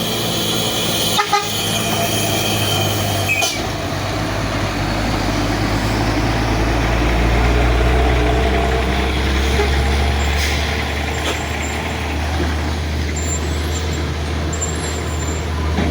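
Heavy truck's diesel engine running close by, a low steady drone that swells around the middle, with two short knocks in the first few seconds.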